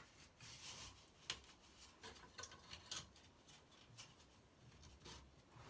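Tin snips cutting a slit into a flexible vent duct: a few faint, sharp snips with rustling of the duct between them.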